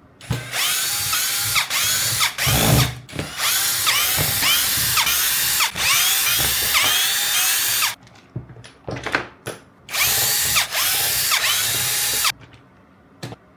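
Power drill running in two long runs, about eight seconds and then about two seconds, its pitch dipping and recovering about twice a second. A few sharp clicks of handling fall between and after the runs.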